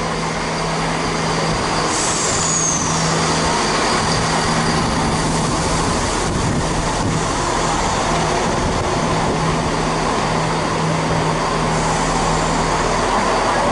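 Class 170 diesel multiple unit running past along the platform, its engine giving a steady low hum over continuous wheel and rail rumble.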